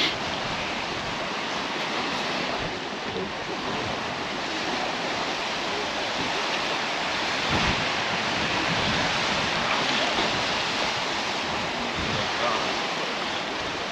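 Sea surf washing on the beach, a steady rushing that swells and eases, with wind buffeting the microphone in low rumbles.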